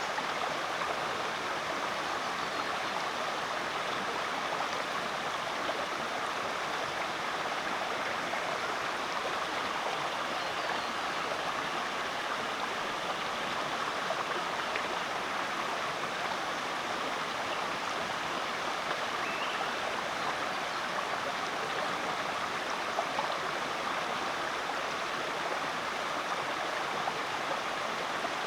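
Rainforest creek flowing over rocks: a steady rush and babble of water.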